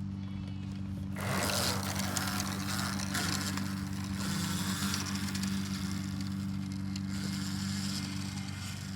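An electric dirt bike being ridden: rough tyre and wind noise comes in suddenly about a second in, over a steady low hum.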